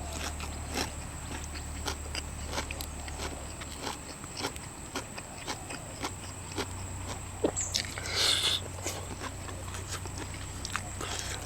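Person biting and chewing boiled seafood, with scattered small crunches and clicks and one louder, short noisy burst a little past eight seconds in.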